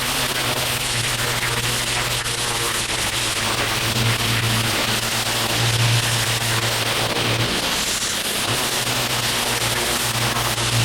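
Gas pressure washer running steadily, its engine humming under a constant hiss of high-pressure water spray.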